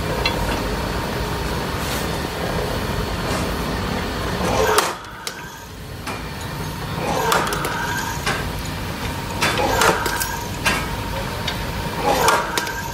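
Korean BX25 220 V single-phase electric rebar cutter running with a steady hum, with a louder burst about every two and a half seconds as it cuts steel bar.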